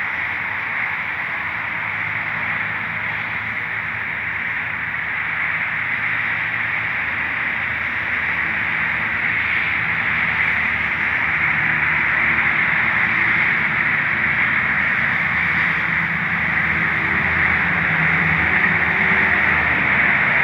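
Steady hiss of rain, with a low engine-like hum underneath that grows a little louder in the second half.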